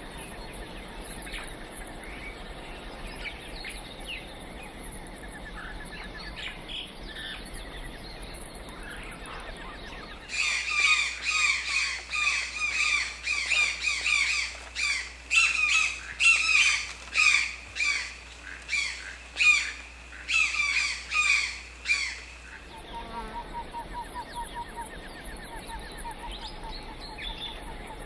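Tropical birds calling. A loud run of repeated harsh calls, about two a second, cuts in about ten seconds in and stops suddenly after roughly twelve seconds. It is set between quieter stretches of other bird calls and trills.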